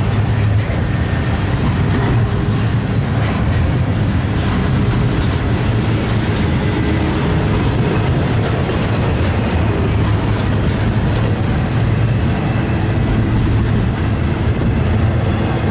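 Double-stack intermodal train's loaded container well cars rolling past close by: a loud, steady rumble of steel wheels on the rails.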